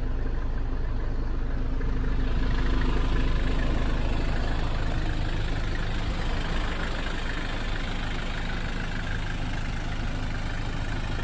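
Nissan Atlas's TD27 naturally aspirated four-cylinder diesel idling steadily. About two seconds in the sound grows brighter and stays that way.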